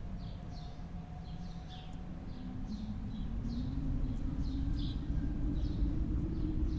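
Snowstorm wind rumbling low and howling, its howl rising slowly in pitch, with quick high chirps repeating a few times a second over it.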